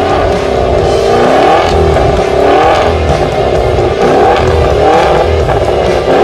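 Maserati Ghibli Trofeo's twin-turbo V8 revved repeatedly through its quad exhausts while the car stands still, the pitch rising and falling with each blip of the throttle.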